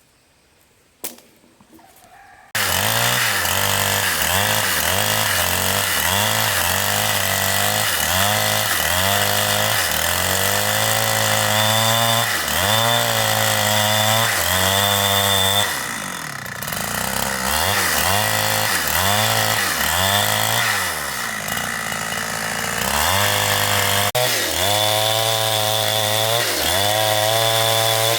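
A large two-stroke chainsaw cutting into a big tree trunk, its engine pitch dipping and recovering over and over as the chain bites into the wood. It comes in suddenly about two and a half seconds in, after a single click.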